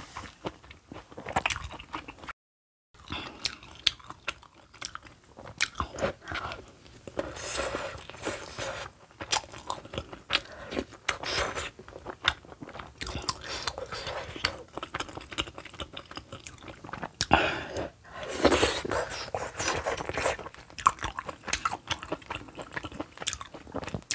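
A person chewing mouthfuls of kimchi stew, rice and kimchi close to a clip-on microphone, with irregular crunches and wet mouth sounds. The sound cuts out completely for about half a second near the start.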